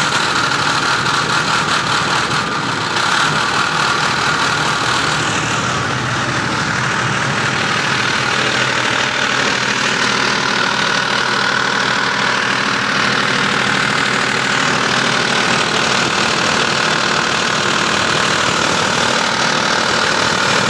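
25 kVA diesel generator set running steadily, with an abnormal noise from the engine.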